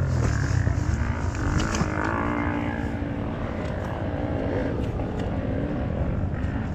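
Off-road motorcycle engines running, the pitch rising and falling as the throttle is worked.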